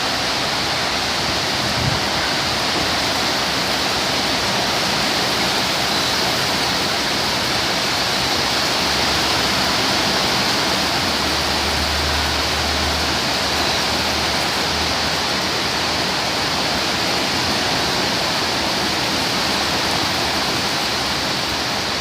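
Torrential tropical rain pouring down in a steady, dense hiss, with a low rumble for a few seconds in the middle.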